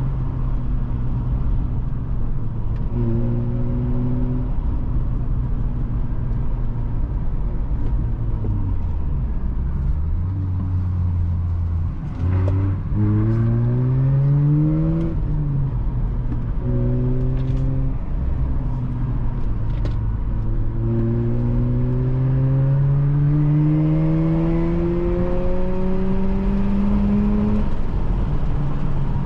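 Mazda RX-8's twin-rotor Wankel engine through a Re Amemiya aftermarket exhaust, driven hard: revs sag and settle, then after a brief drop around the middle (a gear change) the engine pulls up quickly, and over the last third it climbs in one long steady rise in revs.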